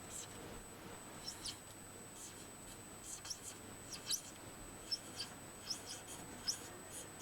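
Marker pen squeaking on a whiteboard in a string of short strokes, as a short caption is written out by hand.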